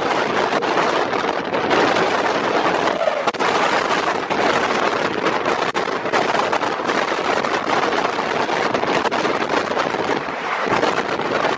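Train running at speed: wind rushing over the microphone over a steady running noise, with frequent rattling clicks.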